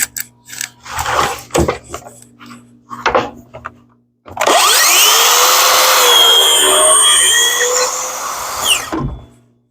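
A few knocks and clatter from handling the wood and tool, then an electric woodworking power tool spins up, runs loudly and steadily through black walnut for about four and a half seconds, and winds down.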